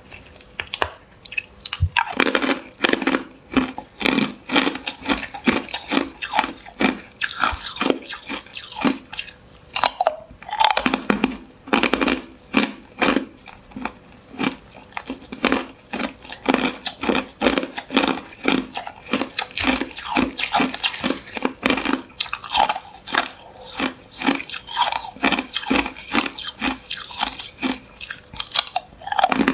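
Hard clear ice being bitten and chewed close to the mouth: a long run of sharp, cracking crunches, a couple a second, with a few short pauses.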